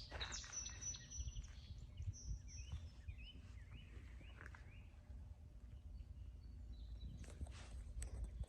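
Small birds chirping faintly in a series of short repeated calls over a low steady outdoor background rumble.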